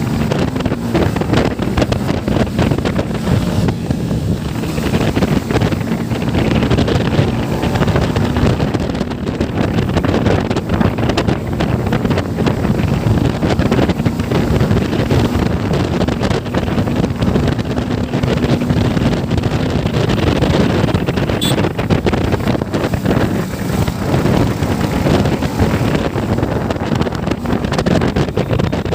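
Motorcycle riding along at steady speed: its engine runs with a steady drone, buried under heavy wind buffeting on the microphone.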